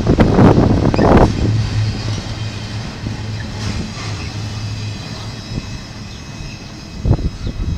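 Double-stack container train rolling slowly past: wheels clacking for the first second or so, then a steady low rumble that fades as the last well cars go by.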